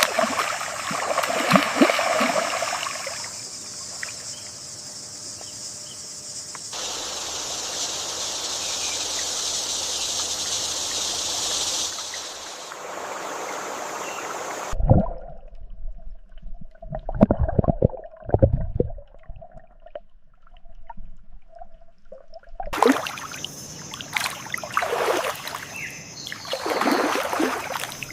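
River water flowing and trickling, with splashes and sloshing. The sound changes abruptly several times, and one stretch in the middle holds a run of sharp low splashes.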